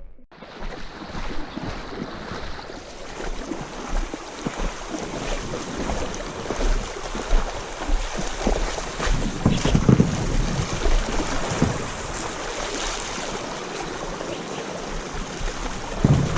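Wind gusting across an action camera's microphone, a steady rushing hiss with low buffeting swells that rise and fall.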